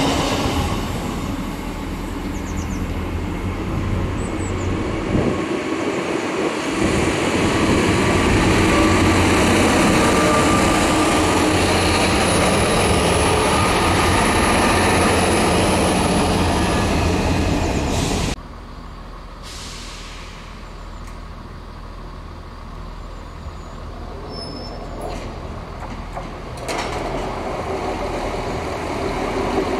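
A train running by at close range, with a low steady engine hum and a thin high whine above it. About 18 seconds in the sound drops off abruptly to a quieter rumble, then grows louder again near the end.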